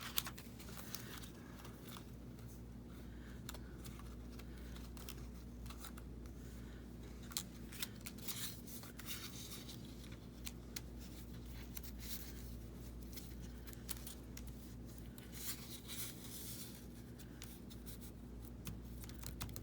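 Paper craft pieces being handled on a work table: scattered light paper rustles and clicks, busier about halfway through and again later, over a steady low hum.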